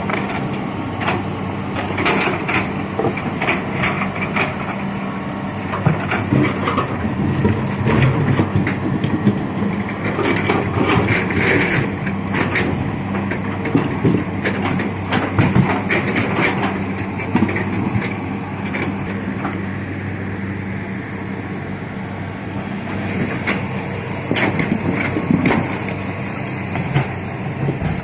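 Excavator running steadily while rocks clatter and crack against each other in many irregular knocks.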